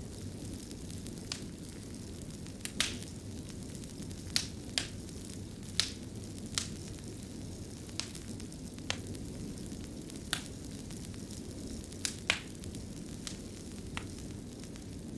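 Wood fire burning in a fireplace: a steady low rumble of flames with sharp, irregular crackles and pops, roughly one a second.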